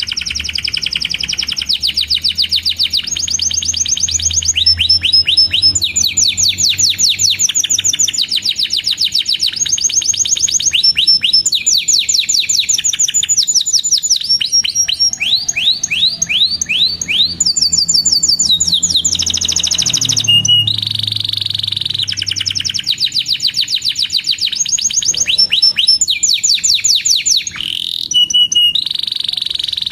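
Domestic canary singing a long continuous song of rapid repeated chirps and rolling trills, switching to a new phrase every second or two.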